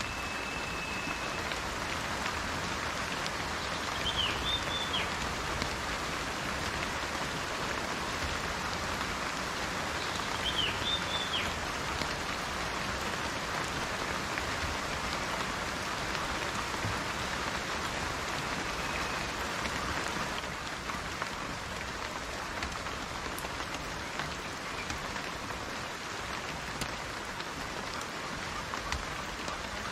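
Steady rainfall, an even hiss of drops on a surface, with two brief pairs of high chirps about four and ten seconds in.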